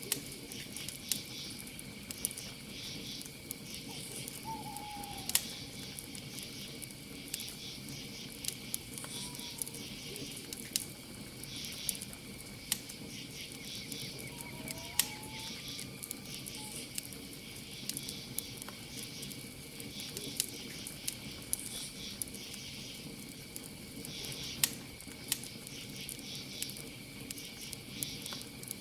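Campfire crackling, with sharp pops at irregular intervals throughout, over a steady chorus of crickets chirping in pulsing bursts. A few brief, faint calls are heard just after the start and again around the middle.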